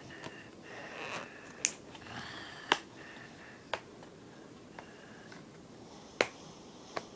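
Toy car blister packaging being pried open by hand: a few sharp plastic clicks and snaps, five or so spread out, over faint rustling.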